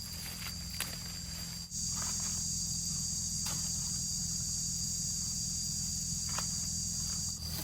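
Steady high-pitched insect buzzing, like a cicada, that starts suddenly about two seconds in and cuts off near the end, over a few scattered clicks and rustles.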